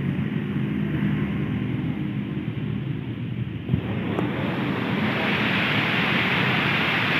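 Heavy rain falling, a steady hiss over the low rumble of road traffic; the rain hiss grows louder about five seconds in. A single sharp knock a little before the middle.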